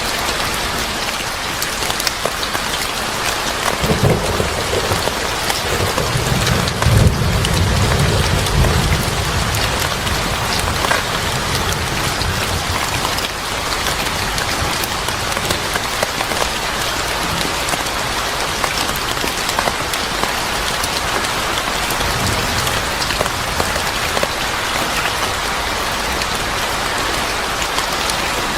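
Steady heavy rain falling on surfaces, with low rolls of thunder rumbling a few times. The longest roll comes about seven seconds in.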